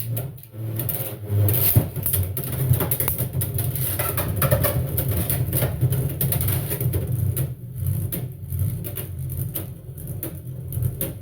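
Two Beyblade X spinning tops, Reaper Incendio T 4-70 Kick and Crest Leon 7-60 Kick, whirring steadily in a plastic stadium, with frequent sharp clacks as they strike each other and the walls.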